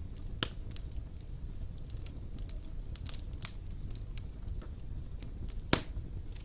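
Wood fire burning in a fireplace: a steady low rumble with scattered sharp crackles and pops, the loudest a single pop near the end.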